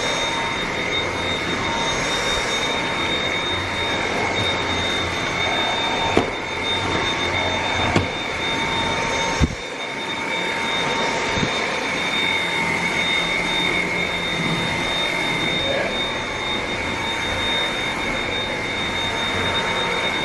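Dyson vacuum cleaner running steadily with a high whine, vacuuming up cut dog hair, with a few short knocks as it bumps along.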